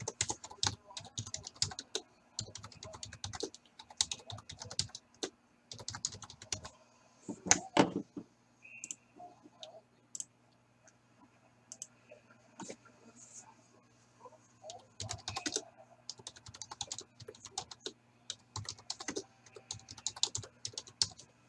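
Typing on a computer keyboard: bursts of rapid key clicks separated by short pauses, with a louder knock about seven or eight seconds in.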